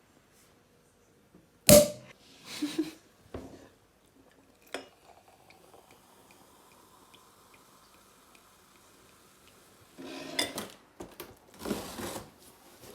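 Objects being handled in a small room: a sharp knock about two seconds in, a few more knocks and clicks, then a quiet stretch and busier clatter near the end.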